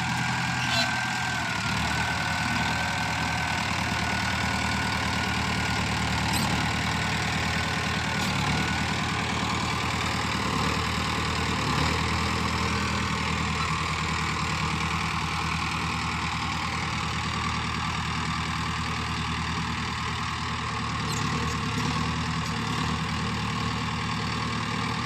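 Tractor engine idling steadily, with a steady hum and no change in speed.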